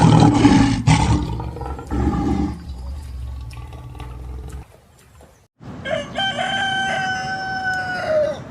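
A lion's roar dying away over the first few seconds, then after a short pause a rooster crowing once: one long call held on a steady pitch that cuts off sharply near the end.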